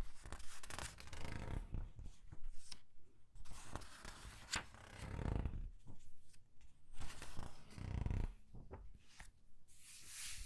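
Comic book pages being turned one after another and squeezed, with several swells of paper rustling and crinkling and small crackles between them, and a brief high swish near the end.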